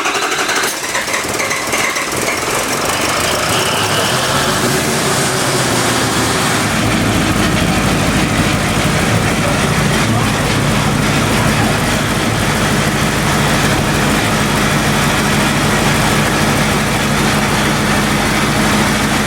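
Diesel truck engine running just after being started with a freshly installed replacement turbo. A high whine rises over the first few seconds, then the engine settles into a steady idle.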